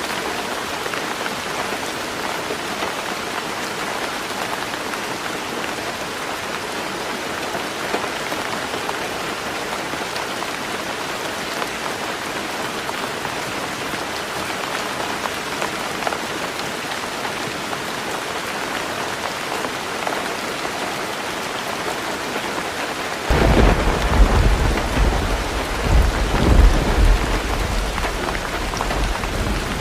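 Heavy rain drumming steadily on a tin roof; about three-quarters of the way through, a deep rumble of thunder breaks in suddenly and rolls on, swelling a few times.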